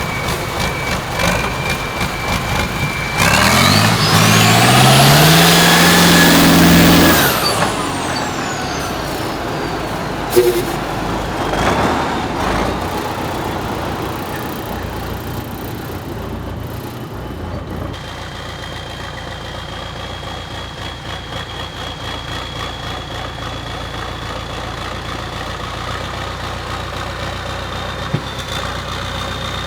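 Tatra 148 truck's air-cooled V8 diesel revved hard for about four seconds, with a high whine rising and falling with the revs, then settling back to a steady lower run. A single sharp click comes about ten seconds in.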